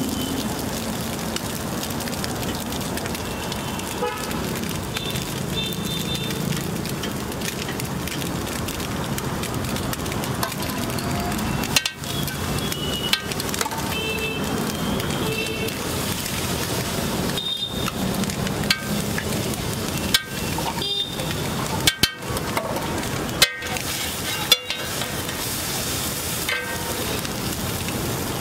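Oil sizzling on a flat iron griddle as chopped egg and onion fry in it, a steady hissing crackle. A few sharp clicks stand out in the second half.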